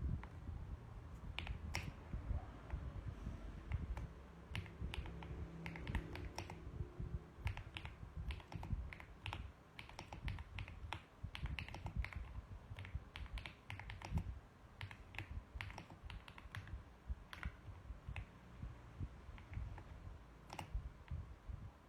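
Typing on a mechanical keyboard: irregular runs of sharp key clicks with short pauses between them, thickest in the middle and thinning out near the end.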